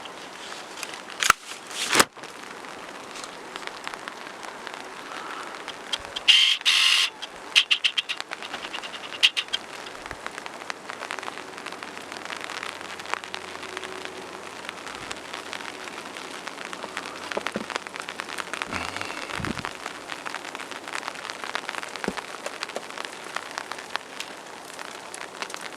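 Steady rain falling, with many small drops ticking on surfaces, and a brief louder burst of noise about six seconds in.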